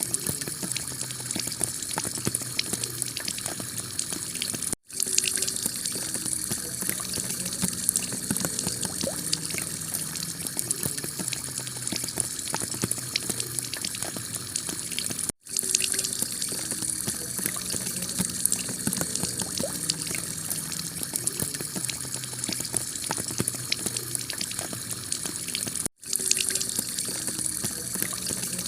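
Heavy rain falling on a clay tile roof: a dense, steady patter of countless drops. The sound cuts out for an instant three times, about every ten seconds, where a recording loop restarts.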